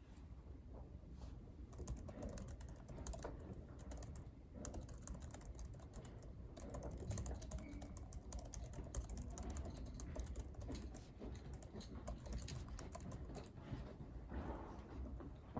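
Typing on a computer keyboard: runs of quick keystroke clicks that begin about a second and a half in and thin out near the end, over a steady low background hum.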